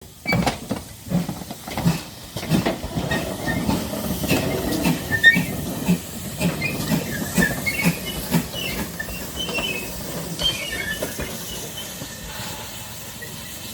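Steam train running, with a regular chuff about twice a second over a hiss, growing quieter toward the end before cutting off.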